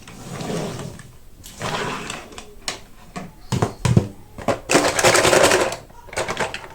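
Toy car packaging being handled and opened: crinkling and rustling of plastic and card, with several sharp clicks and a longer crinkling, tearing stretch about five seconds in.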